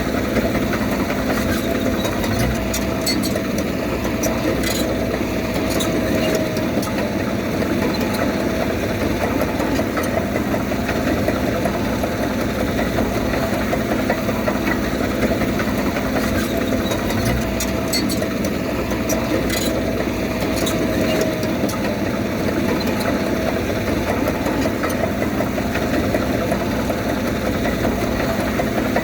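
Diesel engine of a Komatsu D31P crawler bulldozer running steadily under work, with a few sharp clicks now and then.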